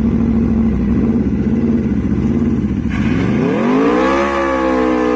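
Motorcycle engine running with a low, pulsing note, then about three seconds in it revs up, the pitch rising for about a second and holding high.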